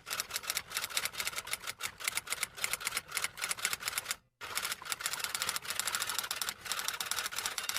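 Typewriter keys clattering in quick, irregular strokes, several a second, with a brief pause a little past halfway.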